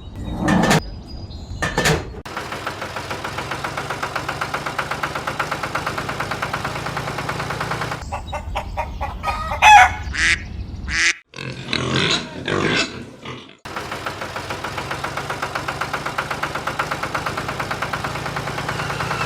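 A small engine running with a rapid, even beat. In the middle it is broken by several seconds of irregular sounds and sharp knocks.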